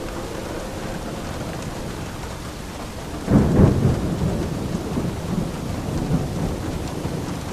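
Steady rain falling, with a clap of thunder breaking in about three seconds in and rumbling on, slowly fading.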